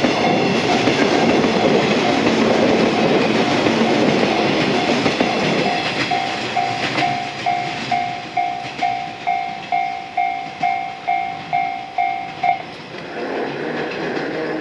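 Electric train running with loud rail noise that fades after about six seconds, as an electronic bell starts ringing steadily at about three strikes a second; the bell stops near the end, leaving a low hum.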